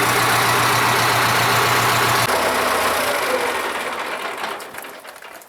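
Farm machine's diesel engine running steadily at idle. About two seconds in, its low hum cuts off abruptly and the remaining noise fades away over the next few seconds.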